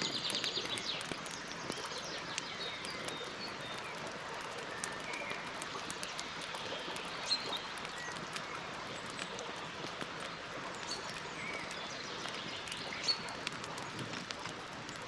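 Campfire crackling, with a steady run of small pops and two sharper snaps. Birds chirp now and then, with a short trill at the very start.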